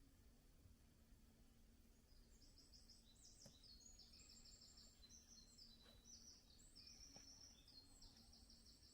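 Faint songbird song: high-pitched trills of rapidly repeated notes, in overlapping phrases starting about two seconds in.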